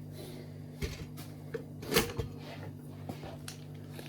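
A few light knocks and clicks from kitchen items being handled, the loudest about two seconds in, over a steady low hum.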